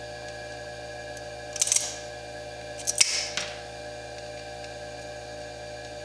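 Foredom bench lathe running steadily, with two short, high, hissing scrapes about one and a half and three seconds in as the slitting disc cuts into the fire agate.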